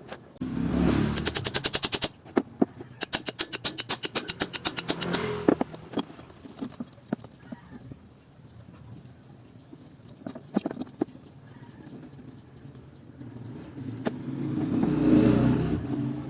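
Two bursts of a power tool's rapid rattling strikes with a high whine, the first about a second and a half long, the second about two and a half, as fasteners are undone while an air compressor pump is taken apart. Scattered clinks and knocks of metal parts follow, then a louder rush of noise near the end.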